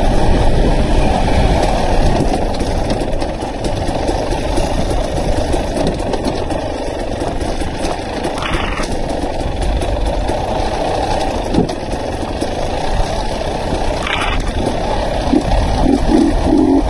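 Dirt bike engine running steadily while being ridden along a trail.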